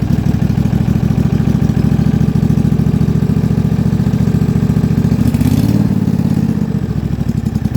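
Yard Pro YT-16 lawn tractor engine running steadily on its newly replaced carburetor during its first cold start. Its note changes a little over five seconds in, and it starts to die down at the very end.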